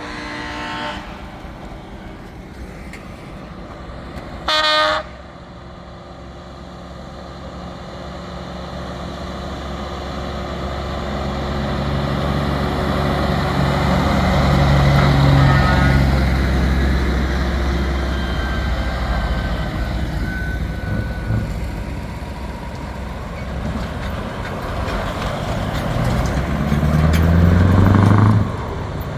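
Heavy trucks driving past, engine noise building as one passes close. A short, loud horn blast about five seconds in, and an engine revving up near the end before it drops away.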